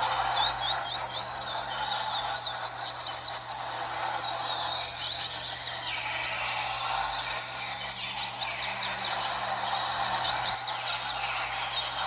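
Several double-collared seedeaters (coleiros) singing at once in a tournament singing ring, their fast runs of quick whistled notes overlapping almost without a break.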